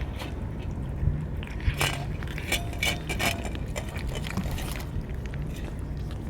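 Cats eating: irregular sharp clicks of biting and chewing, densest in the middle, over a low steady rumble.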